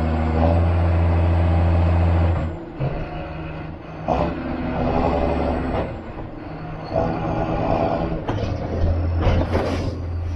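John Deere 7530 Premium tractor's six-cylinder diesel engine working under load, its note rising and falling with the throttle. A short hiss comes near the end.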